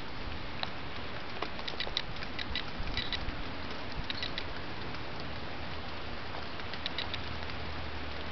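Rain falling in a steady hiss, with scattered sharp ticks of drops pattering.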